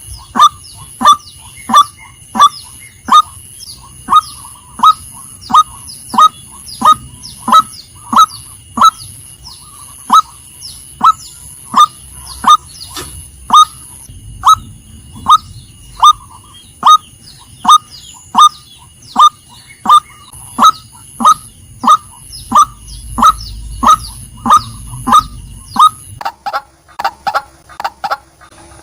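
Female white-breasted waterhen giving a steady series of short, sharp calls, about one and a half a second, each dropping in pitch. The calls stop about 26 seconds in. A faint steady high whine runs behind them.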